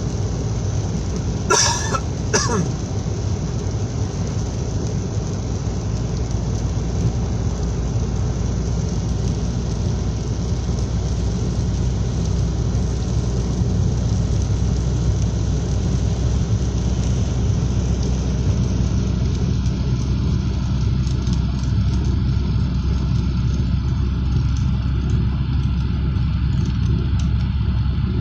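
Steady rain falling non-stop, with a low rumble beneath it and two sharp clicks about two seconds in.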